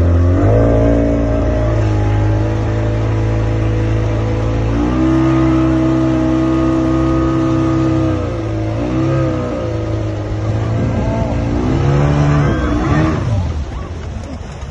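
Boat engine running hard as it tows a banana boat, its pitch shifting several times with the throttle, then falling away near the end as it slows.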